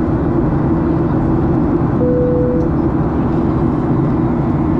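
Steady drone of an airliner cabin in flight: jet engine and airflow noise, strongest at the low end. A short single steady tone sounds for about half a second roughly two seconds in.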